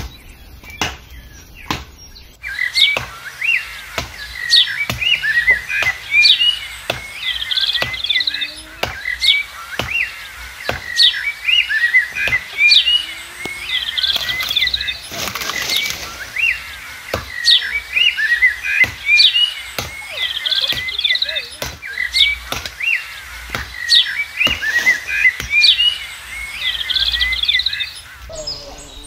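Songbirds chirping and twittering in quick, repeated calls, starting about two and a half seconds in and stopping just before the end, over a sharp click that repeats evenly nearly twice a second.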